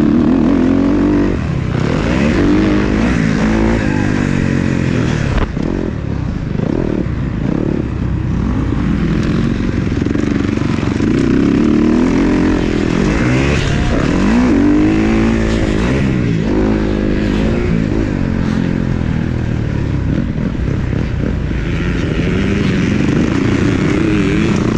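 Several motocross dirt bikes racing on the track, their engines revving up and falling off again and again as they accelerate and shift, with the pitches overlapping.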